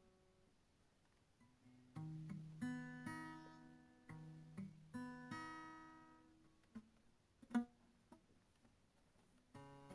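Background music: acoustic guitar chords plucked and strummed, each ringing and fading, coming in about two seconds in. A sharp tap about seven and a half seconds in is the loudest moment.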